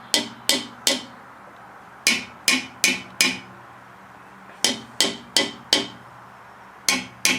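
Knocking on the steel exhaust housings under a Mercedes CLK 320, in quick groups of about four sharp, briefly ringing knocks, a short pause between groups. The two sides are being compared: one side sounds hollow, taken as a sign that its secondary catalytic converter's ceramic core has broken up.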